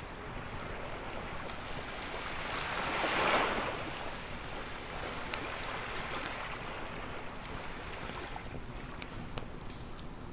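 Ocean waves washing onto a beach, one wave surging up and falling away about three seconds in. Campfire crackles pop here and there over the wash, the sharpest near the end.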